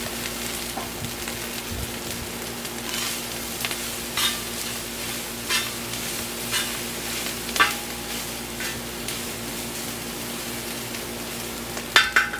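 Rice frying in a disc cooker, sizzling steadily while a metal spatula scrapes and taps against the pan every second or so, with a sharper cluster of scrapes near the end.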